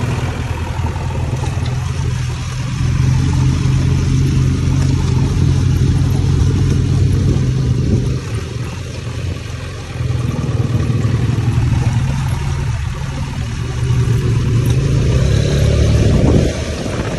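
JCB 3DX backhoe loader's diesel engine running hard and rising and falling in speed as the hydraulics take load. Near the end it climbs in pitch, then drops back suddenly.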